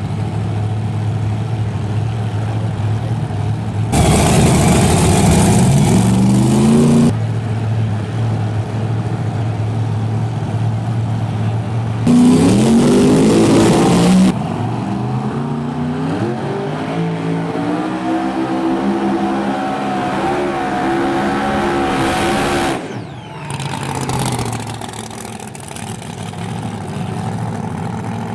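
Drag-racing engines idling at the line, a short burst of hard throttle with rising pitch about four seconds in, then a full-throttle launch about twelve seconds in, the engine note climbing for several seconds as the racers pull away down the track and fade.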